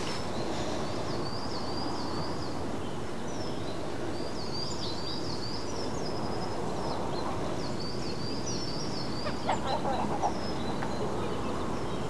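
Small birds chirping and twittering in quick, high, repeated phrases over a steady low rumble, with the chirping fading out about two-thirds of the way in.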